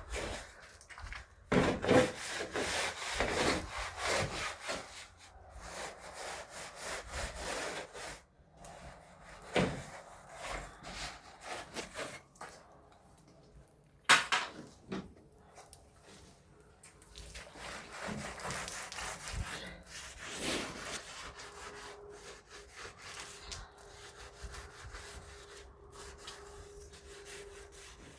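Irregular scraping and rubbing strokes on a hard surface, with a sharp knock about fourteen seconds in and a faint steady hum in the last several seconds.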